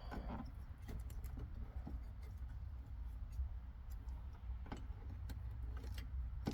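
Scattered small clicks and rustles of hands twisting and handling thin electrical wires under a car's dashboard, over a low steady hum.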